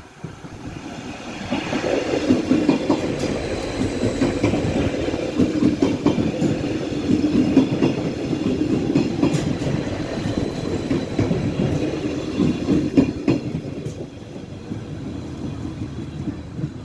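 Stadler GTW diesel multiple unit passing close by over a level crossing: its diesel engine runs with a dense rumble, and the wheels clack over the rails. It gets loud about a second and a half in and drops off about fourteen seconds in as the train clears the crossing.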